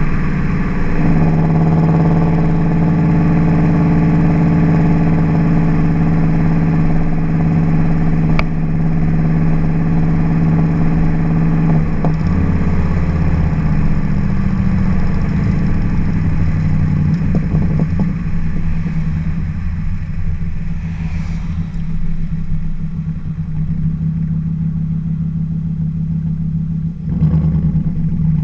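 Audi B7 S4's 4.2-litre V8 running through a custom Akrapovic cat-back exhaust, holding a steady low note at moderate revs. The note shifts about twelve seconds in, wavers for a few seconds after, and dips briefly near the end.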